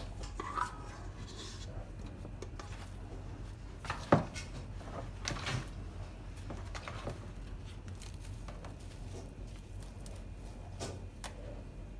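Light clinks and knocks of dishes and utensils being handled, with one sharper knock about four seconds in, over a low steady hum.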